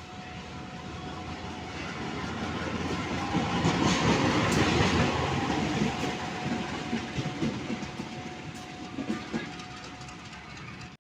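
A train passing close by: the rumble grows to its loudest about four to five seconds in and then fades, with wheels clacking over the rail joints.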